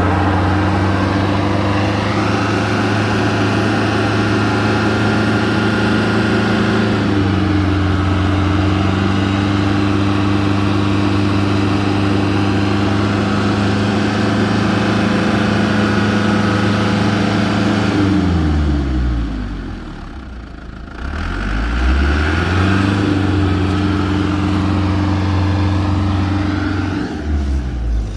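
The engine of an Isuzu Elf crane truck running steadily, stepping up in speed about a quarter of the way in. Later its speed drops sharply and climbs back up again, then dips once more near the end.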